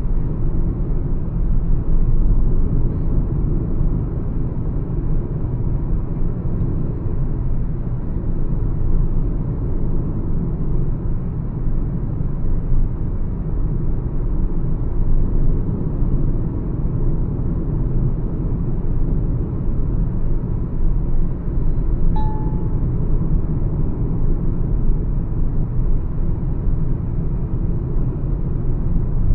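Steady low rumble of road, wind and engine noise from a Mahindra XUV 300 cruising at highway speed, with a short beep about two-thirds of the way through.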